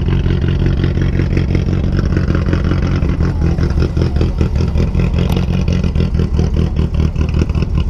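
A classic car's engine running steadily and loud, its exhaust heard as a rapid, even pulse.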